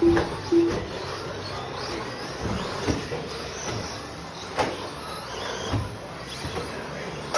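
Electric RC stadium trucks racing: faint motor whines rising and falling, with scattered knocks from the trucks on the track. Two short beeps come right at the start.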